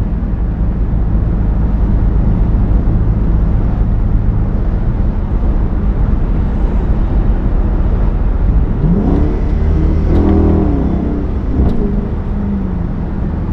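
Straight-piped 2022 Chrysler 300 S's 5.7-litre Hemi V8 exhaust droning steadily at highway speed. A few wavering higher tones come and go over it near the end.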